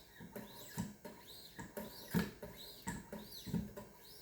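2000-grit sharpening stones of a Wicked Edge guided sharpener stroking along the edge of a VG10 Japanese chef knife, faint and rhythmic at about two strokes a second, each stroke a short swish rising and falling in pitch.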